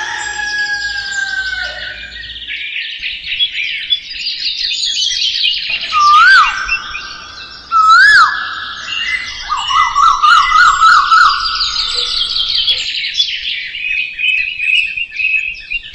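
Several birds chirping and singing at once, with two loud swooping whistled calls about six and eight seconds in and a fast warbling trill just after.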